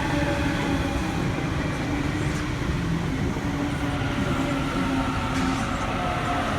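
Electric passenger train pulling into a station platform: a steady rumble of wheels on the rails with the whine of its electric motors, drifting slightly in pitch as it slows.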